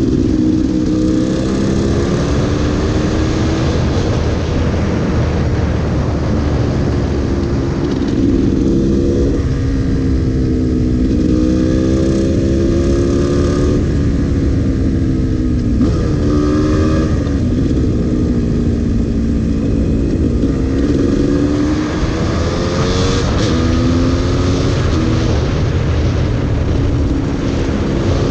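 Gas Gas EC300 two-stroke single-cylinder engine under way, its pitch repeatedly rising and dropping with throttle and gear changes through the bends, over steady wind noise on the microphone.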